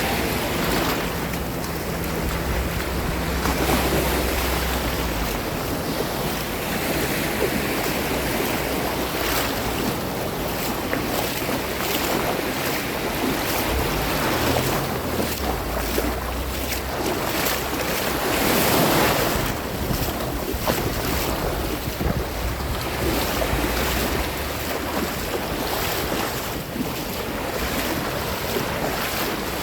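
Sea waves washing and breaking, with wind buffeting the microphone as a low rumble that comes and goes; one wave swells louder about two-thirds of the way through.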